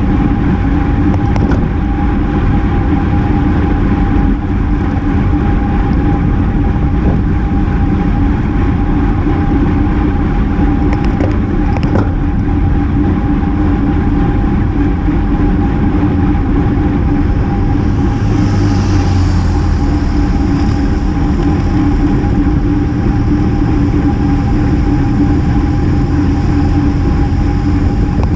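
Steady wind noise rushing over a GoPro action camera's microphone on a moving road bike, with a constant low hum underneath.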